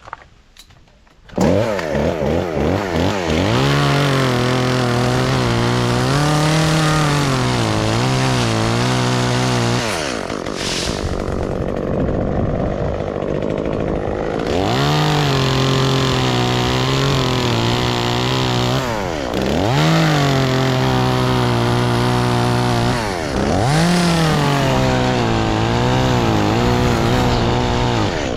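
Gas chainsaw's two-stroke engine comes in abruptly about a second in, then runs at high revs with its pitch repeatedly sagging and recovering. A lower, steadier stretch comes near the middle.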